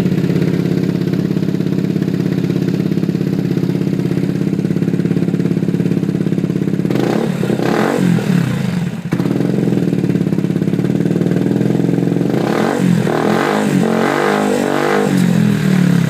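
Yamaha X-City 125 scooter's single-cylinder four-stroke engine running through an aftermarket sport exhaust. It idles steadily, is revved once about seven seconds in, and is blipped several times near the end.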